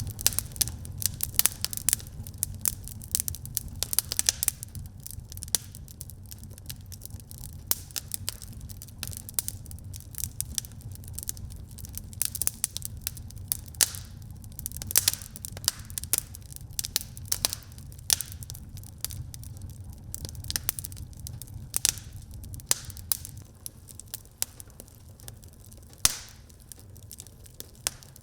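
Wood fire burning in a fireplace, crackling with irregular sharp pops and snaps over a steady low rumble; one louder pop near the end.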